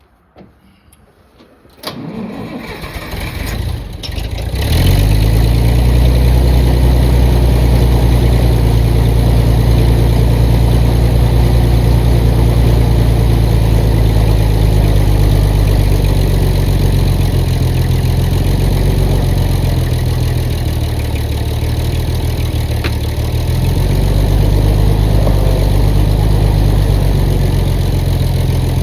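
Engine of a heavy machine cranked about two seconds in, catching a couple of seconds later and then running steadily, easing off slightly and picking up again near the end.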